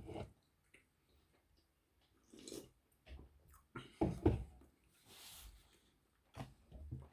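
A few short, scattered breaths and mouth noises from a person pausing between bites of food, with one soft, hissy exhale a little past the middle.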